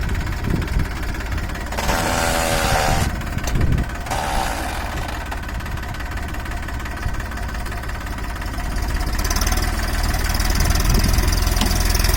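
Tractor engine running with a steady knocking rumble, which grows louder and heavier about nine seconds in.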